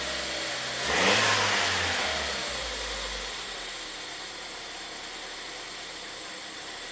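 Ford Transit Connect's 1.6-litre EcoBoost turbocharged four-cylinder engine idling, revved up once about a second in, then slowly falling back to idle.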